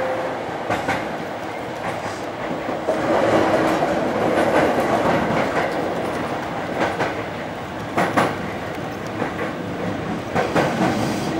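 Hankyu Railway electric train heard from inside the car, running into a station. The wheels clatter over rail joints and points, with several sharp clacks, two of them close together about eight seconds in.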